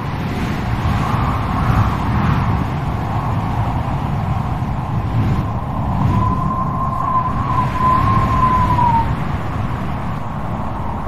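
Strong wind blowing with a low rumble and a steady howl. A little past the middle the howl sharpens into a clear whistle for about three seconds, dipping in pitch as it fades.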